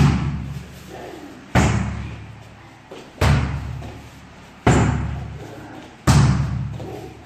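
Heavy slams repeating about every second and a half, each followed by a long echoing decay.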